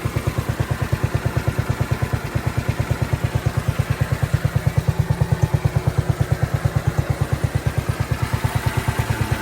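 An engine idling steadily, a low, even pulse about ten times a second.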